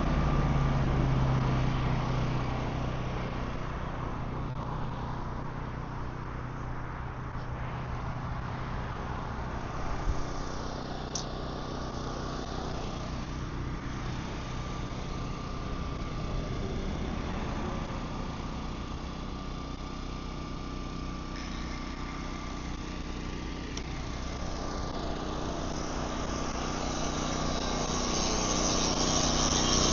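An engine running steadily at idle, a constant hum that grows louder near the end.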